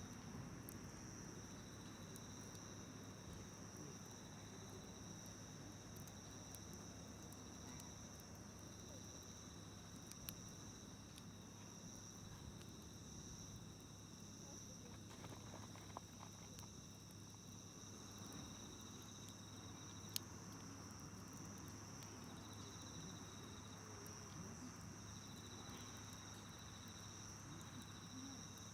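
Faint, steady trilling of insects in two continuous high tones, one of them breaking off and starting again, with a few sharp pops from a wood campfire, the loudest about 20 seconds in.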